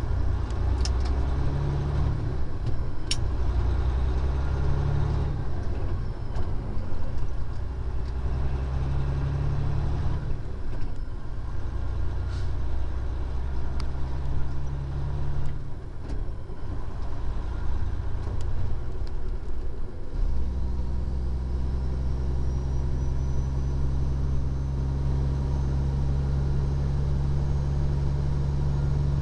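Diesel engine of a 2014 Freightliner Columbia glider tractor running, heard from inside the cab with road noise. The engine note shifts in the first part and settles into a steady low hum about twenty seconds in, with a few light clicks here and there.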